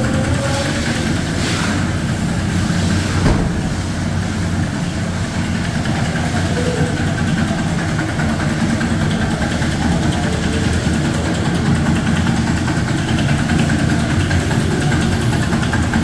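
Maruti Suzuki Zen car engine idling steadily, with one sharp click about three seconds in.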